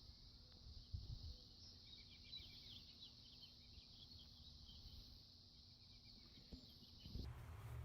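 Faint outdoor background: a steady high hiss like insects, with a run of short bird-like chirps in the middle. It cuts off abruptly shortly before the end.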